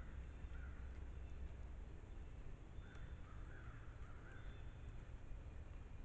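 A bird calling: two short calls, then a quick run of four or five more about three seconds in, over a steady low rumble.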